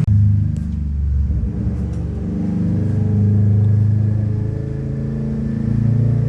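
Kawasaki Ninja 400 parallel-twin engine with an aftermarket exhaust, running on a dyno during tuning, holding a fairly steady speed after its pitch has fallen off.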